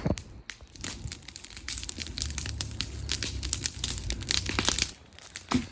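Wood bonfire of old boards burning, with dense irregular crackling and popping over a low rumble.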